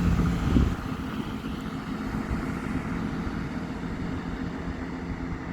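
A large diesel vehicle's engine running with a steady low hum. A heavier rumble underneath dies away about a second in.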